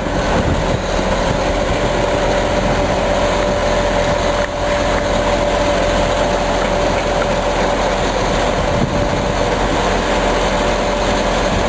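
Hooklift truck's engine running at a steady speed, with a constant whine over it.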